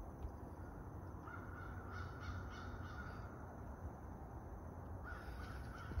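A bird calling twice: one drawn-out call starting about a second in, and another near the end.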